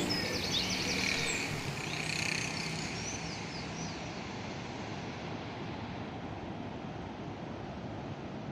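Steady wash of ocean surf, with birds chirping over it that fade out in the first few seconds.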